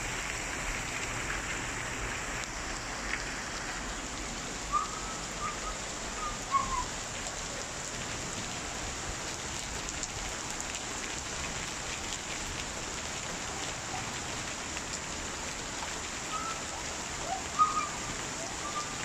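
Rain falling steadily, with a few short faint chirps about five seconds in and again near the end.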